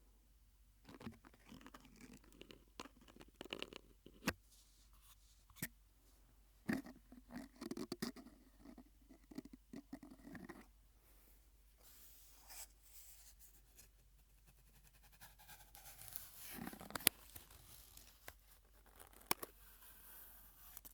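Mouth sounds made close to the microphone through a drinking straw: irregular wet clicks and smacks in clusters, with a breathy rush of air through the straw about two-thirds of the way in.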